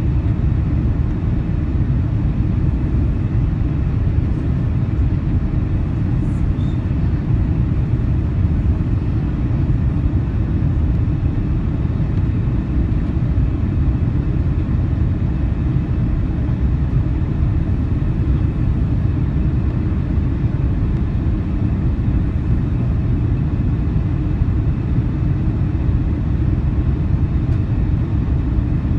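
Steady, low cabin rumble inside a four-engined Airbus A340-300 airliner in flight, from its engines and the airflow over the fuselage.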